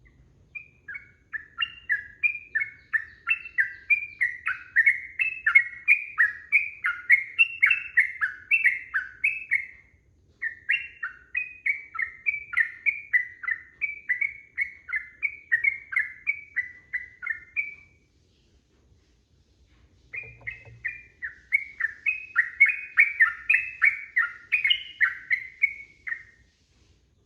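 Yellow-vented bulbul singing a long, fast run of short bubbly chirping notes, about four a second, in three long bouts with a short pause between the second and third.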